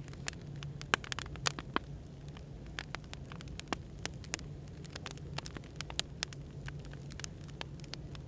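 Wood fire crackling, with irregular sharp pops, over a steady low hum of background white noise.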